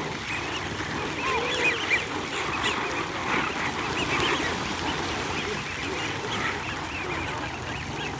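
A flock of wild birds calling, with many short calls overlapping one another continuously.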